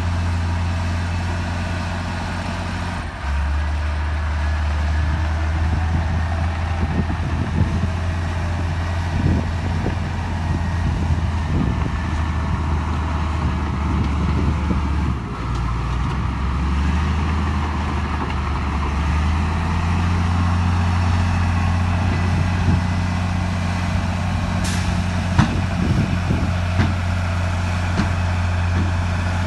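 Heavy diesel earthmoving machinery running steadily, its low engine note shifting a few times as the load changes. Scattered knocks and clanks come through the middle and near the end, and there is a brief high-pitched sound about 25 seconds in.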